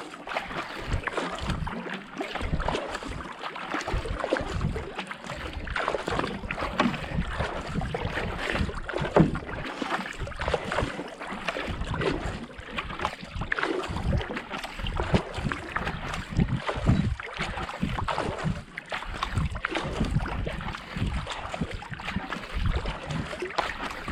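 Racing kayak paddle blades catching and pulling through canal water, a continuous run of splashing strokes at a pace of about 70–80 strokes a minute, with wind buffeting the action camera's microphone.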